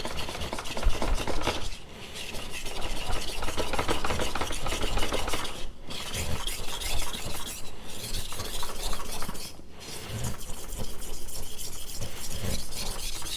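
AEB-L stainless knife blade being stroked by hand on a wet 1000-grit NanoHone whetstone: a continuous gritty scraping of steel on stone, with a few brief pauses. The stone is loaded with slurry and metal but still cutting.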